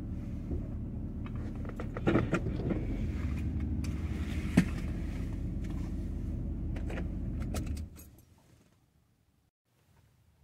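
Van engine running with a steady low hum, keys jangling and clicking over it, then switched off about eight seconds in.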